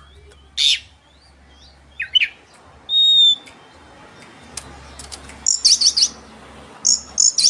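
Oriental magpie-robin (kacer) in full, varied song. A loud call, then two quick falling notes, a long steady whistle about three seconds in, and fast, rapidly repeated high notes in the last two seconds.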